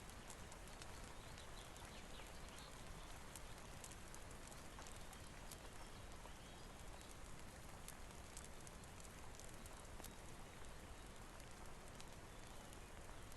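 Faint, steady hiss of rain with scattered sharp crackles from a wood fire in a fireplace.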